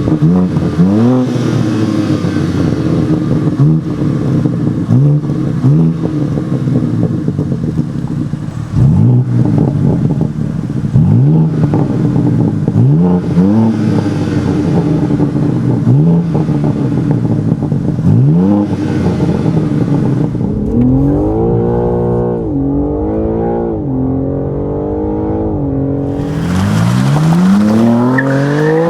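BMW M4 Competition's six-cylinder engine through its M Performance exhaust, revving up again and again in short rises of pitch. It then rises and falls more slowly, and near the end climbs hard under full acceleration.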